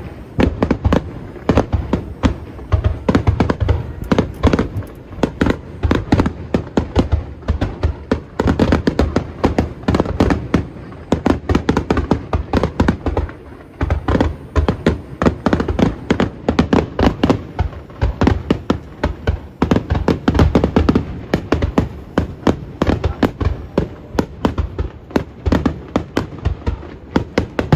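Fireworks bursting in a dense, continuous barrage: several sharp bangs a second over a deep rumble.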